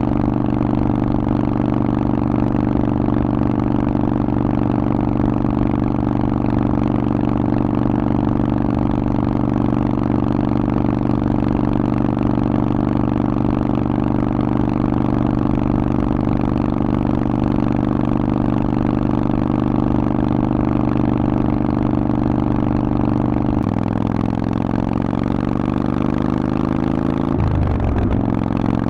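Harley-Davidson Forty-Eight's air-cooled V-twin running through a Vance & Hines exhaust, holding a steady engine speed while riding. About two-thirds of the way in the engine note starts to fall, then near the end it dips sharply and climbs again.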